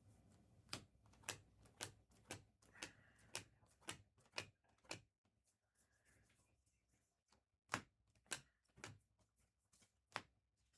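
Trading cards being handled and flicked through, a series of sharp, irregular clicks and snaps, roughly one or two a second, with a brief lull about halfway through.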